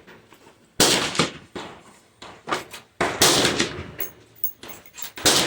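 Rifle gunshots at a shooting range: three loud reports about two seconds apart, each trailing off in an echo, with fainter shots between them.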